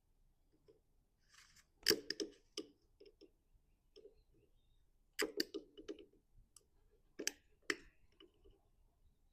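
Scattered sharp clicks and clacks of hand tools and small mower parts being handled during a repair. They come in short groups about two seconds, five seconds and seven seconds in.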